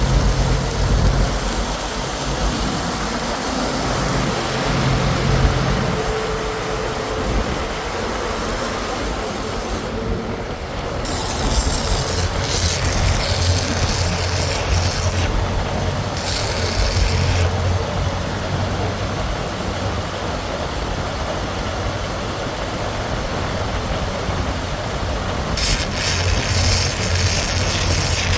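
A heavy engine running steadily with a constant low hum. Bursts of high hissing noise break in about eleven seconds in, again about sixteen seconds in, and near the end.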